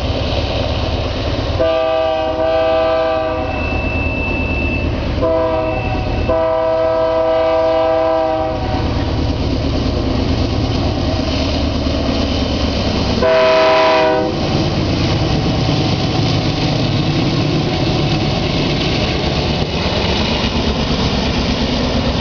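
BNSF freight train with GE C44-9W diesel locomotives running with a steady, heavy low rumble. The locomotive's air horn sounds a chord four times: a long blast about two seconds in, a short one, another long one, and then a short blast about thirteen seconds in.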